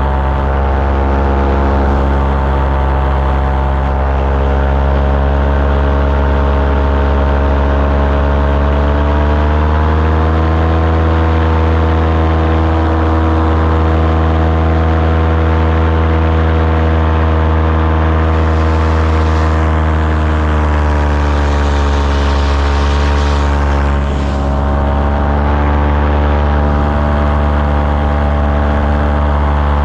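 Engine of a small propeller-driven recreational aircraft running steadily, its pitch rising about ten seconds in as the throttle opens and settling back down around twenty seconds in, with a brief dip a few seconds later.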